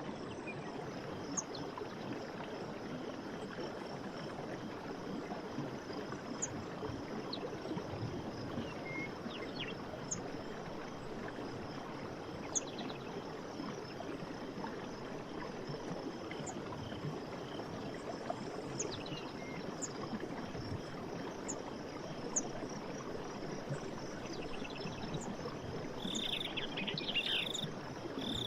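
Stream water running steadily, with short, high bird chirps every few seconds. A louder repeated animal call starts near the end.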